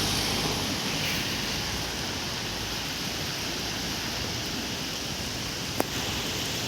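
Steady rain falling in a storm, an even hiss, with one sharp click near the end.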